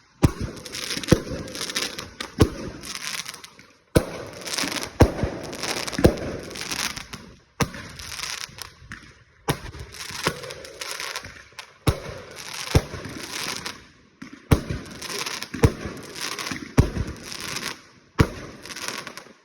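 Fireworks going off: many sharp bangs over continuous crackling. The sound comes in runs of a few seconds, each cut off abruptly.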